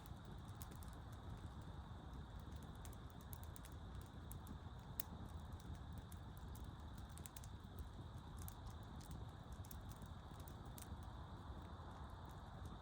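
Campfire crackling: scattered, irregular sharp pops and ticks over a low, steady rumble.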